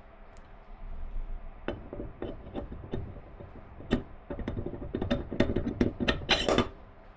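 Irregular knocks and clinks of parts and tools being handled, coming faster in the second half, with a brief rattling clatter a little past six seconds in.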